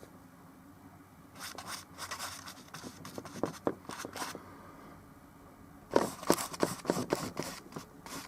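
Scratchy scraping strokes of oil-painting tools working paint on a surface. They come in two quick runs, one starting over a second in and a louder one about six seconds in.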